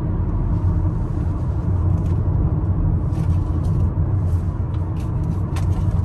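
A car's cabin road noise while driving: a steady low rumble of engine and tyres.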